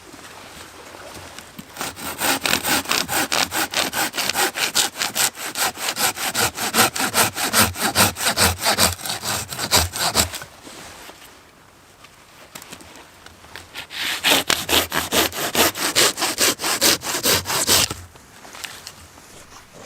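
Hand saw cutting through wood in quick, even back-and-forth strokes, in two bouts with a short pause between them.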